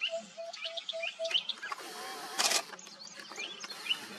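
Birds calling: a short piping note repeated about four times a second that stops after about a second, with higher chirps over it. About halfway through, a brief burst of hissing rustle is the loudest sound.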